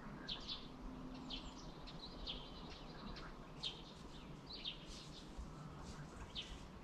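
Faint birdsong: short, high chirps about every half second to a second, over a soft steady background noise.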